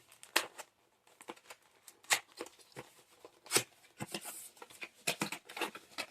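Packaging being handled while parts are unpacked: irregular rustling and crinkling with sharp clicks, the loudest about two and three and a half seconds in, and a busier run of rustles near the end.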